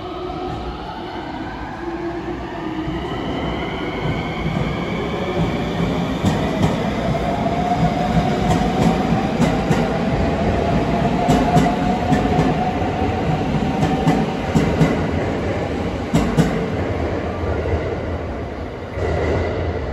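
Electric multiple-unit train moving along the platform and passing close by. Its motor whine rises in pitch as it gathers speed, and its wheels click rhythmically over the rail joints as the cars go past.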